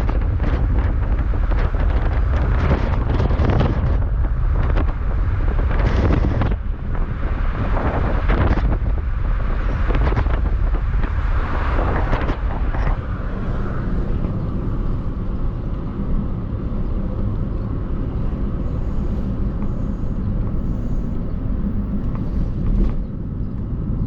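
Car driving along a road, heard from the moving vehicle: a steady low rumble of road and engine noise. Wind hits the microphone in irregular gusts during the first half, then the rumble settles and evens out.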